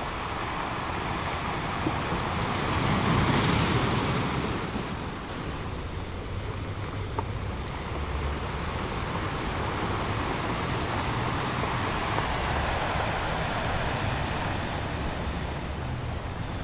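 Ocean surf: waves washing in steadily, with one louder wave surging about three seconds in.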